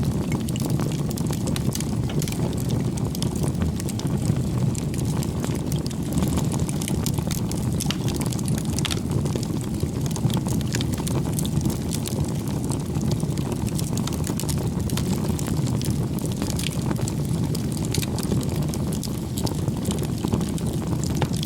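Bonfire burning: a steady low rush of flame with frequent sharp crackles and pops from the burning wood.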